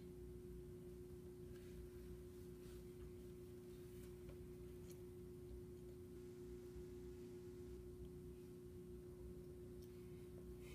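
Near silence: a faint steady hum at one pitch, with a few faint ticks.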